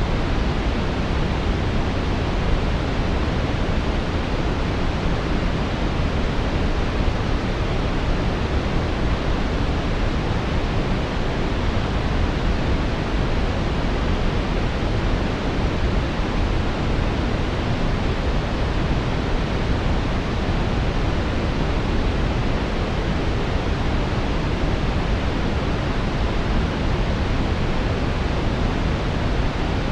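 Steady brown noise: an even, unbroken rushing hiss weighted toward the lows, with no changes or events.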